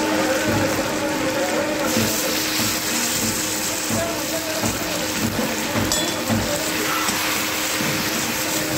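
Chicken pieces frying in hot oil in a steel karahi over a gas flame: a steady sizzle.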